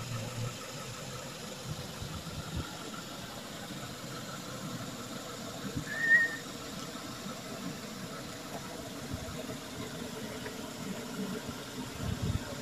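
Car engine idling steadily with a low hum, with one short high chirp about six seconds in.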